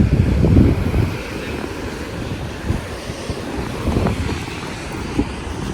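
Wind rumbling on the microphone in gusts, strongest in the first second.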